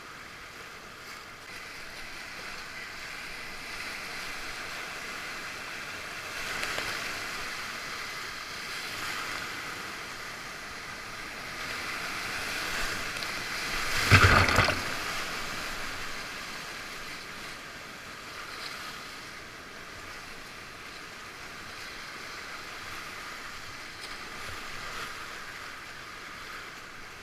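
Whitewater river rapids rushing steadily around a kayak, with one loud, sudden splash about halfway through.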